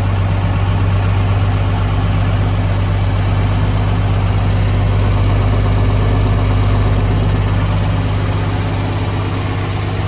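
Ford Cargo 0813 truck's diesel engine idling steadily seconds after being started, with a strong low, even hum.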